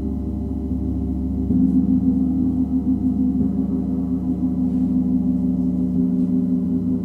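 Gong ringing in a sustained, wavering low wash, struck again about a second and a half in, around three and a half seconds in, and near six seconds.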